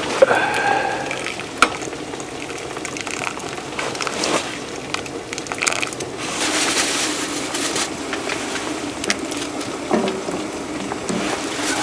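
Food sizzling in a pan on a wood cooking stove, with sharp clicks and scrapes of a utensil. The sizzle thickens about halfway through.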